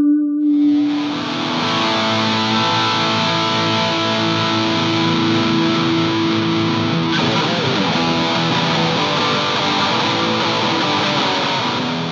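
Electric guitar played through heavy distortion: about half a second in, a thick distorted chord is struck and left to ring, held steady, with a note bent and wavered around the middle.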